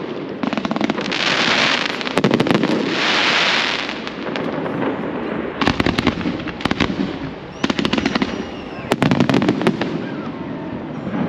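Fireworks display: clusters of rapid crackling pops come and go several times, and twice in the first four seconds a loud rushing hiss swells and fades.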